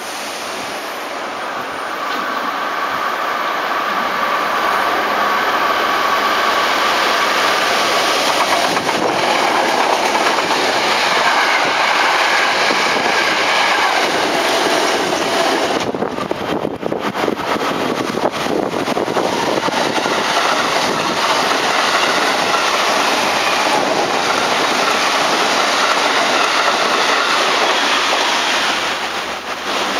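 Electric train running past on the rails, its wheels clattering over the rail joints with a faint whine. It swells about two seconds in and fades near the end.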